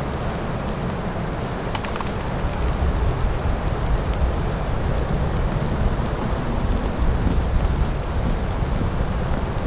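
Steady storm noise: a low wind rumble with fine, scattered ticks of precipitation pattering down.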